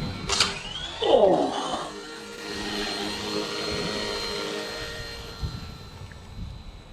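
Mini RC helicopter's small electric motor and rotor whirring steadily, fading away over the last couple of seconds.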